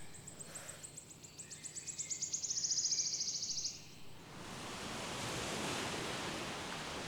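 Outdoor nature ambience. A high, rapid pulsing trill grows louder and stops about four seconds in, followed by a steady rushing noise.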